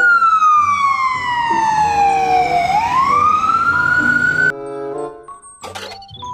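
Ambulance siren wailing: one slow downward sweep lasting about two and a half seconds, then a rise back up, cut off suddenly about four and a half seconds in. Background music is heard under the siren and carries on alone after it stops.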